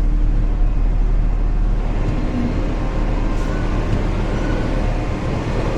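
Semi truck's diesel engine running at low speed, a steady low rumble.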